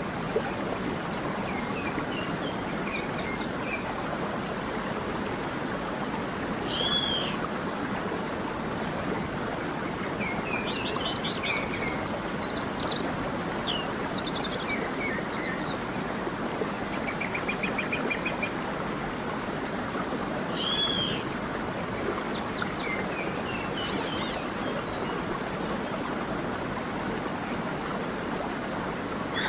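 Creek water running steadily with several birds singing over it: chirps and trills throughout, and a louder two-note looping call about 7 seconds in and again about 21 seconds in.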